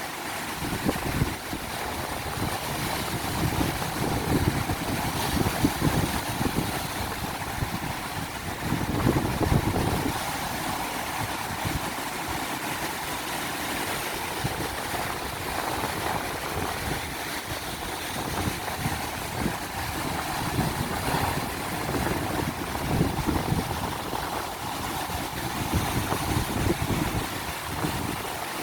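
Ocean surf washing steadily while strong wind buffets the microphone in gusts, with a low rumble that swells several times.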